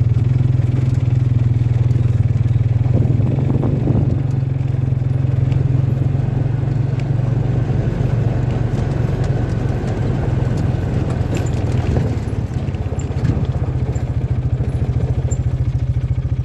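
A vehicle engine running steadily close by, with an even low drone and fast regular firing pulses. Its level dips briefly about twelve seconds in.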